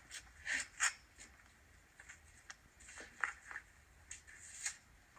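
Faint handling noise: a few soft clicks and rustles, a pair about half a second and a second in, more around three seconds and near the end. No gunshot.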